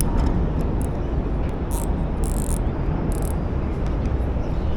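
Steady low rumble of outdoor background noise, with a few short high hissing bursts near the middle.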